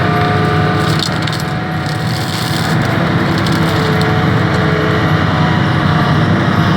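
Excavator-mounted forestry mulcher running steadily, its rotor with fixed teeth shredding wood and brush, over the excavator's engine.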